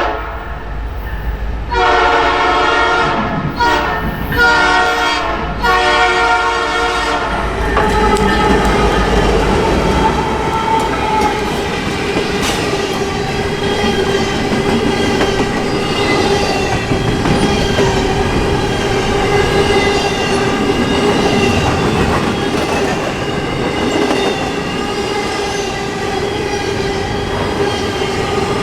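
Nathan P3 three-chime air horn on an EMD SD70ACE locomotive sounding: the end of one blast, then three more blasts in the first eight seconds. After the horn stops, a loaded intermodal container train rolls past on steel wheels, clicking over the rail joints, with a steady squeal from the wheels.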